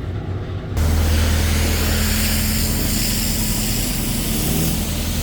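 A pressure washer at a car wash. Its pump hums, and a little under a second in it comes under load and a loud, steady hiss of high-pressure spray begins and holds.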